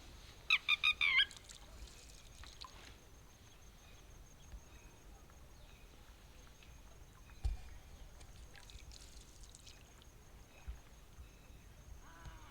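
Bird calls: a quick series of about five loud, sharp notes about half a second in, then scattered fainter calls. A single low thump comes about seven and a half seconds in.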